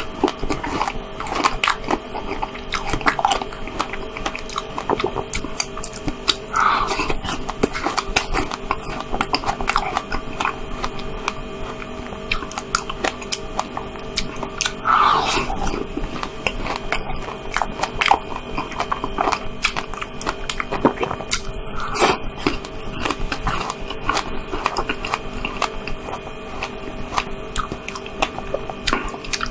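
Close-miked chewing and biting of cream-topped strawberries: a steady run of small wet clicks and smacks, with a few louder bites now and then.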